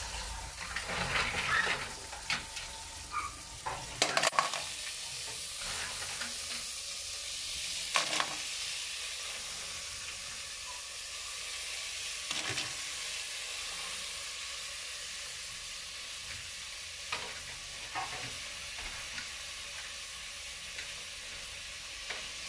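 Garlic, onion and ginger sizzling steadily in a metal pot as green mussels in their shells are stirred in with a spatula, with a few knocks and scrapes against the pot, most in the first few seconds.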